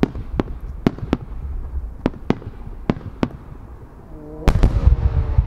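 Fireworks display: about eight sharp pops in the first three and a half seconds. Then, about four and a half seconds in, a loud deep boom as a pair of large No. 10 (30 cm) aerial shells burst together, rumbling on afterwards.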